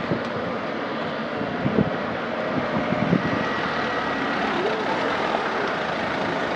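An airliner's engines on approach, a steady rushing noise with a faint high whine, with strong wind gusting and thumping on the microphone.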